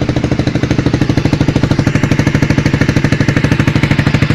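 Single-cylinder motorcycle engine idling steadily through a Pro Liner TR1 racing exhaust with its dB killer fitted, a rapid, even pulsing exhaust note.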